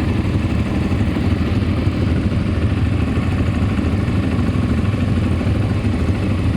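ATV engine running steadily, a continuous low drone.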